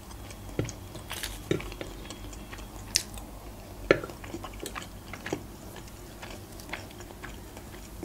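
Close-up chewing of stuffed mussels (midye dolma): soft wet mouth sounds with scattered sharp clicks of a fork and shells, the loudest clicks about three and four seconds in.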